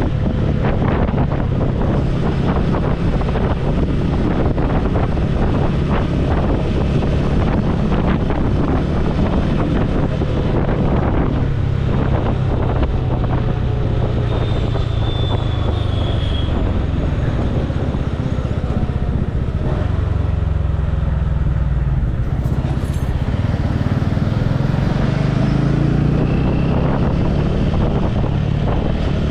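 Motorcycle on the move: steady engine and road rumble under heavy wind noise on a helmet-mounted microphone.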